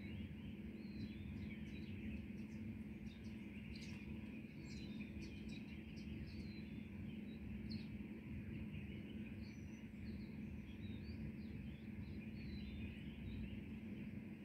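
Morning birdsong: many short, high chirps and tweets from several small birds, scattered throughout, over a steady low hum of background noise.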